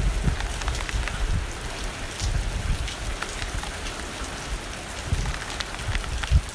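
Steady rain against a window, an even hiss with many separate drops ticking on the glass, over a low, uneven rumble of wind.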